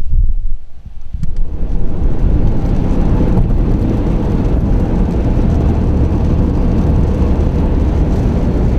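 A car driving, with steady road and engine noise. It drops briefly just under a second in, then rises again and holds steady.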